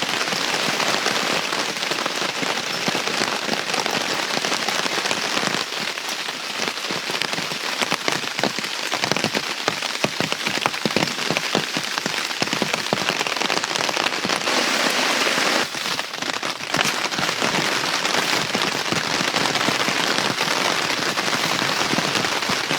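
Heavy rain falling steadily: a dense, continuous patter of drops striking a surface, with many individual drop impacts heard through it.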